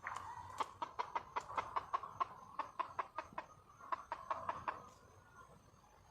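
Red junglefowl hen clucking: a rapid series of short, sharp clucks, about five a second, stopping about five seconds in.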